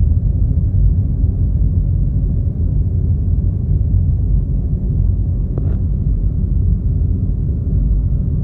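Steady low rumble of road and engine noise inside a moving car's cabin, with one brief faint sound about two-thirds of the way through.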